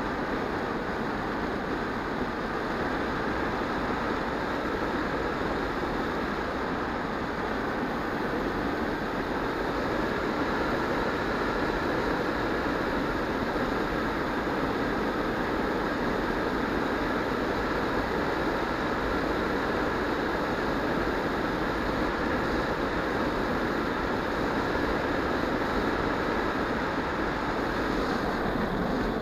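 EasyStar 2 RC model plane's small electric motor running steadily with a faint whine, under a constant rush of wind noise.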